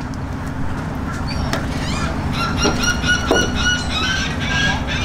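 Birds calling over a steady low rumble: from about two seconds in, a run of short, high, repeated squawks, with a couple of falling cries among them.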